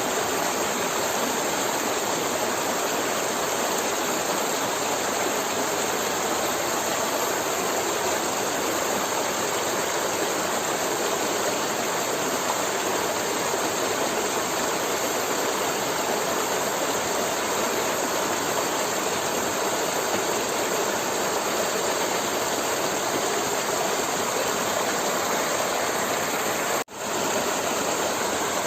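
Forest river flowing, a steady rush of water with no change in strength. Near the end the sound drops out suddenly for a moment and comes straight back.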